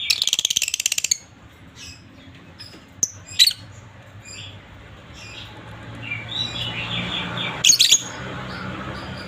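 A pair of lovebirds chirping and chattering: a fast rattling trill in the first second, then scattered sharp high chirps, with a loud squawk a few seconds in and another near the end.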